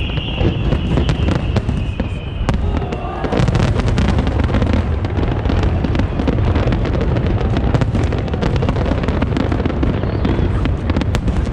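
Large aerial fireworks going off in a dense, continuous barrage: rapid overlapping bangs and crackles over a steady low rumble. A high whistling tone fades out about two seconds in.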